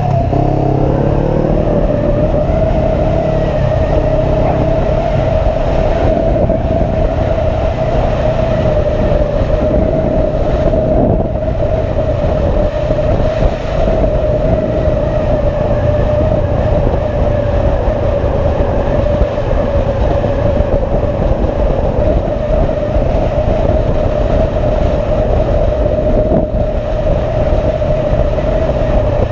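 Motorcycle engine running at a steady cruising speed, its pitch climbing under acceleration at the start and then holding level, over a constant low rumble of wind and road noise.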